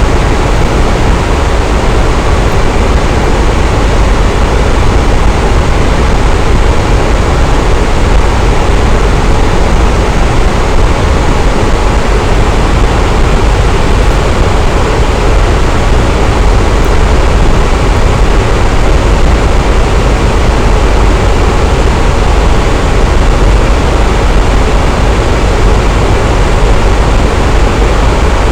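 Electric fan running steadily: an even, deep rush of air that never changes.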